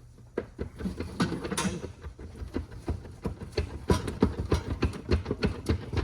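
Rapid metallic knocking, about three or four blows a second, on a part of a Ford-o-Matic automatic transmission that is seized on its shaft, as it is struck to break it loose.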